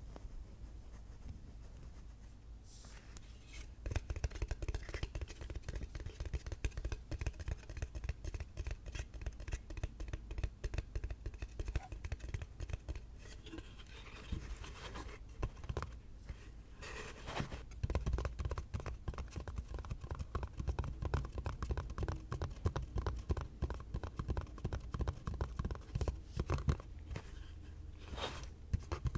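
Rapid ASMR tapping and scratching on an object, many strokes a second, starting about three to four seconds in.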